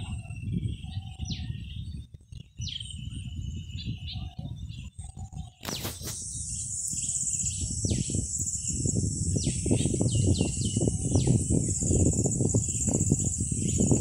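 Birds calling, with repeated short calls that drop sharply in pitch, over a low gusting rumble of wind on the microphone. About halfway through there is a sharp click, then a steady high insect drone sets in and the wind grows louder.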